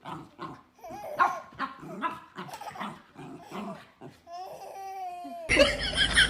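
A dog barking and whining in short, irregular calls, mixed with a person's laughter, ending in one long, slightly falling whine. Near the end the sound cuts abruptly to a busier, fast-repeating animal noise from another clip.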